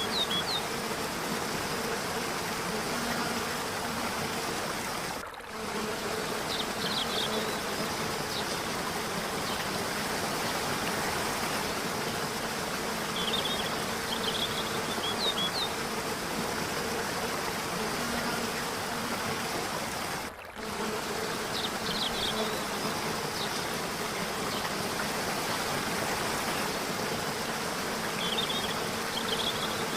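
Steady rush of falling water, with short high chirps every few seconds and a faint steady hum underneath. The sound drops out briefly twice, about 5 seconds in and again about 20 seconds in.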